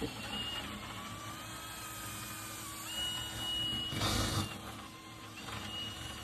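An electric motor on chimney-cleaning equipment running with a high whine. The whine drops in pitch just after the start and steps back up about three seconds in, as its load changes. A short, loud rushing burst comes about four seconds in.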